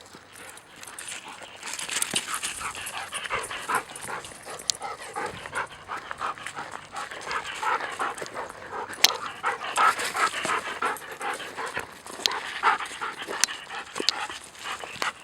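Dogs panting hard and fast from playing fetch, with a few sharp clicks.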